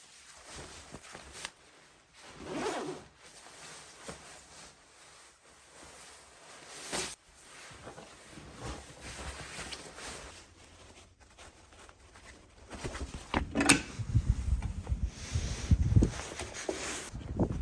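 Handling noises in a small room: soft rustling and rubbing, a sharp click about two-thirds of the way in, then a run of low thumps and knocks over the last few seconds.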